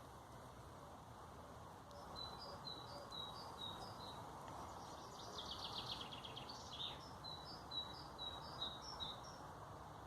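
A small songbird singing a long run of short, high chirping notes, with a quick trill in the middle. Behind it is a steady low background noise.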